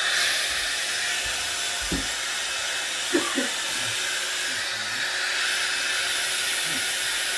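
A loud, steady rushing hiss with a faint hum under it, switched on and cutting off suddenly, like a blower running.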